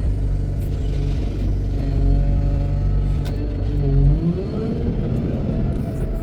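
Wheel loader's diesel engine running steadily, then revving up about four seconds in.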